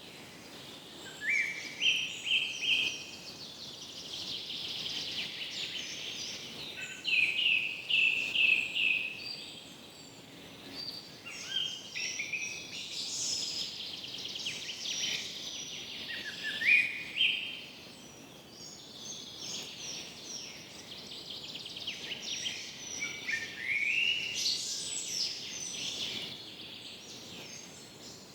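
Forest birdsong: a bird repeats a short phrase of rising, stepped notes every few seconds over a dense, high-pitched chorus of chirping birds and insects.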